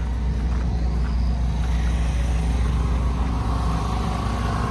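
An engine running steadily: a low, even rumble.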